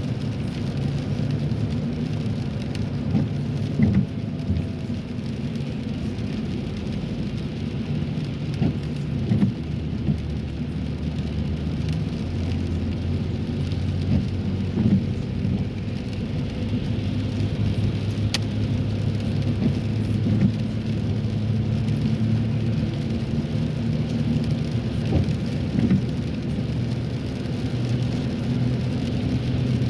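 Car cabin noise while driving on a wet road: a steady low drone of engine and tyres, with rain hitting the car.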